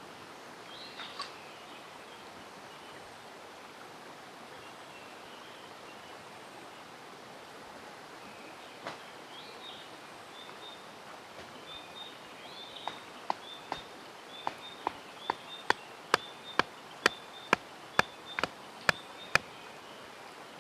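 Steady rush of a mountain stream with birds chirping. About two-thirds of the way in, a run of sharp knocks begins, at first irregular and then coming steadily about twice a second.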